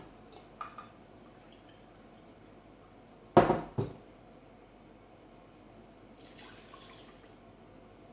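Water being poured into a cooking pot of chicken and spice paste, with two loud knocks and a short ring about three and a half seconds in.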